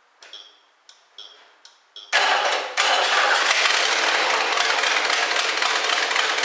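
A few faint clicks, then the 1969 Lincoln Mark III's 460 V8 catches about two seconds in, dips once, and settles into steady running. It is loud and chattery with a known exhaust manifold leak.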